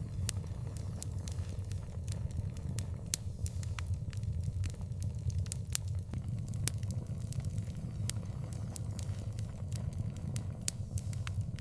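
Wood fire crackling: a steady low rumble of burning with frequent sharp, irregular pops and snaps.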